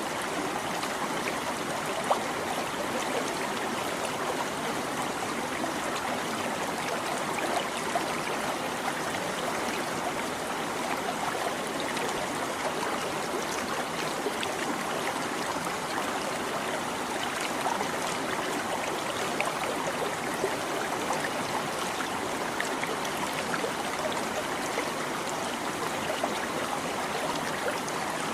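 A shallow stream babbling and trickling over stones, a steady flow of water with small splashes and gurgles.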